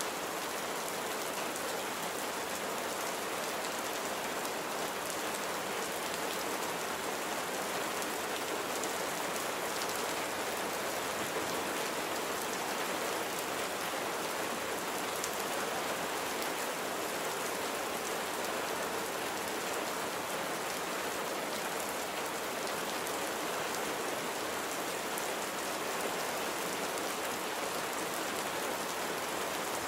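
Steady rainfall, an even hiss of rain with fine drops pattering on a surface.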